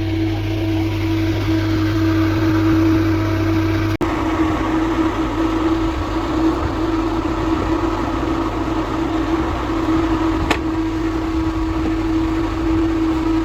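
Steady mechanical hum of running plant machinery, a motor drone holding one steady tone over a low rumble. The sound briefly drops out about four seconds in and resumes slightly changed, and there is a single sharp click near the end.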